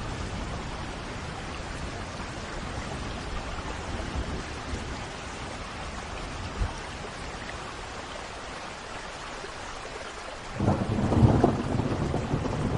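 Steady rain falling, with thunder breaking in suddenly about ten and a half seconds in and rumbling on, louder than the rain, to the end.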